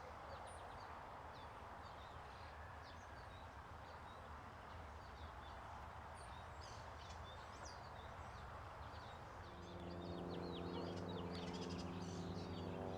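Small birds chirping and calling in quick, short notes over a steady outdoor background hiss. About nine and a half seconds in, a steady low drone with several even tones joins and stays.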